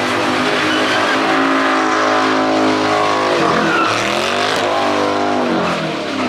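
Car engine held at high revs, dropping sharply about halfway through and climbing straight back up, then falling away near the end.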